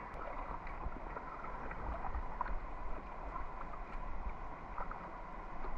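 Packraft on a river: flowing water with small, scattered splashes and drips from the paddling.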